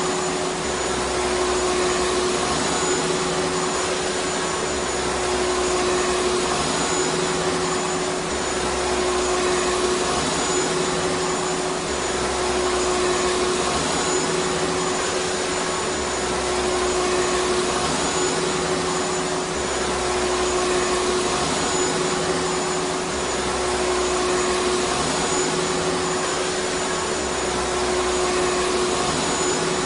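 Vacuum cleaner motor running continuously: a steady whooshing rush of air with a constant hum at one pitch and a faint low rumble that comes and goes every couple of seconds.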